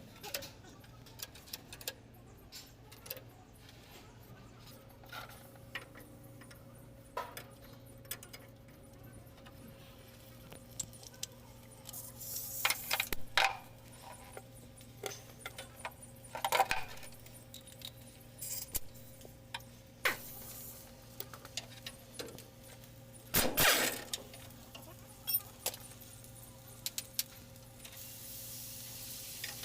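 Metal tools and parts clinking and clattering as they are handled, with a few louder rattling bursts, over a faint steady hum.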